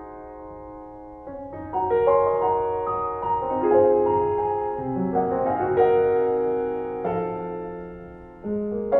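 Background music: slow piano playing held chords and melody notes, fading on a held chord at the start and resuming with new notes about a second and a half in.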